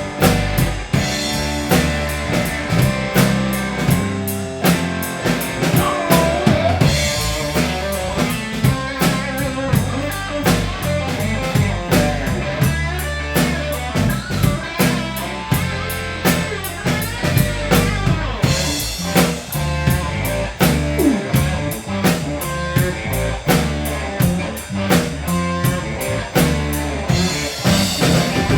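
Live blues band playing an instrumental passage: a drum kit keeps a steady beat with rimshots and bass drum under a bass line, while a guitar plays lead lines with sliding, bent notes.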